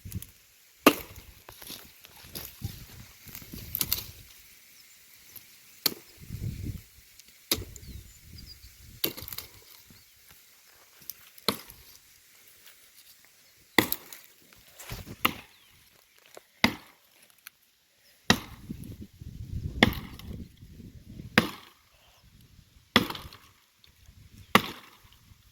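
Wood being chopped by hand with a bladed tool: sharp strikes into wood, about one every second and a half, with rustling of branches between the blows.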